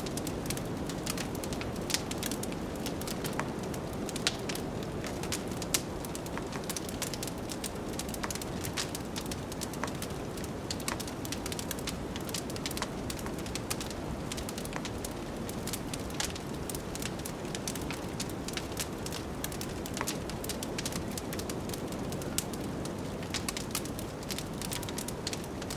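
Wood fire crackling with frequent sharp pops, a few louder ones standing out, over a steady low rush of blizzard wind.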